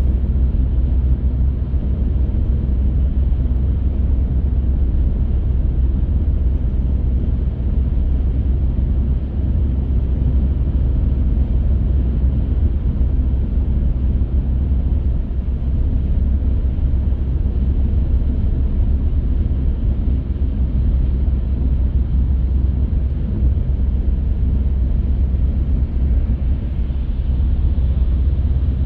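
Steady low rumble of a car on the move: road, tyre and engine noise, unchanging throughout.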